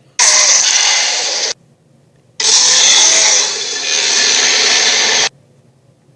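Two dinosaur roar sound effects, harsh and rasping, each starting and cutting off abruptly: a short one of about a second and a half, then a longer one of about three seconds.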